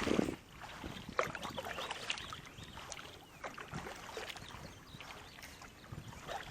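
Quiet water splashing and lapping around a small paddled boat, with irregular light knocks.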